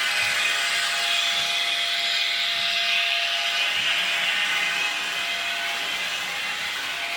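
Model train running on the layout track: a steady motor whine with wheels rolling and rubbing on the rails, growing louder in the first second and easing off near the end.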